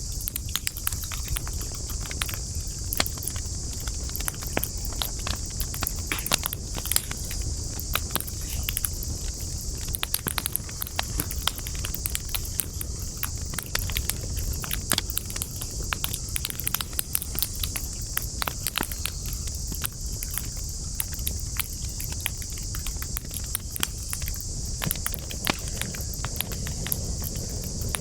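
Wood fire burning with dense, irregular crackles and sharp pops, over a steady high-pitched hiss and a low rumble.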